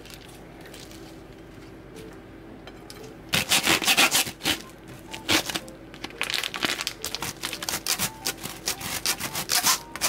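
Crisp crunching of food being chewed close to the microphone, in quick irregular bursts starting about three seconds in.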